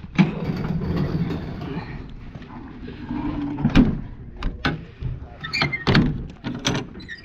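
Knocks and thuds around a truck: a low rumble over the first two seconds, then a run of sharp knocks and a door shutting from about three and a half seconds in.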